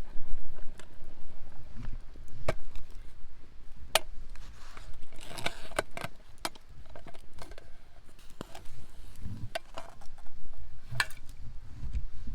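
Firewood being chopped and split: sharp, irregular knocks and cracks of wood, about one every second or two, with a quick flurry about five seconds in, over a low rumble.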